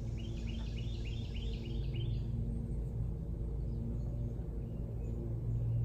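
A bird calling a quick run of short repeated chirps, about five a second, during the first two seconds, over a steady low mechanical hum.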